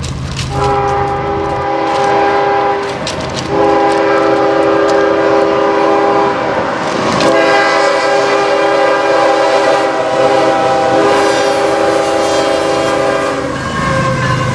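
Locomotive air horn sounding a chord of several notes: a blast of about two seconds, then a long blast of around ten seconds broken briefly midway, over the rumble of the train.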